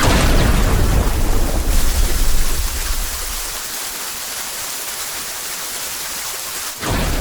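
Steady heavy rain with thunder: a thunderclap at the start rumbles on for about three seconds and fades, leaving the rain alone, and another clap breaks in near the end.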